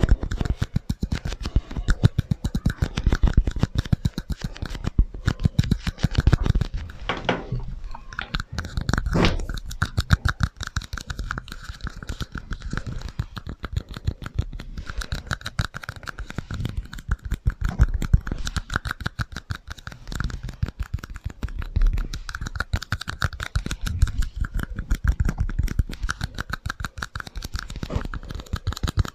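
Rapid, continuous tapping and scratching close to the microphone, many small clicks a second, with a brief pitched scraping sweep about seven to nine seconds in.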